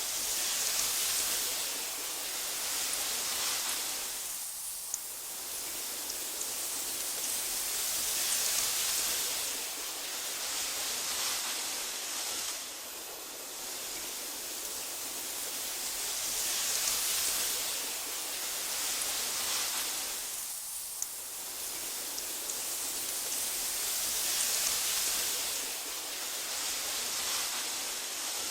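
Wind hissing through tall meadow grass, swelling and easing in gentle gusts every few seconds. The level drops abruptly about twelve seconds in, and there are two faint ticks.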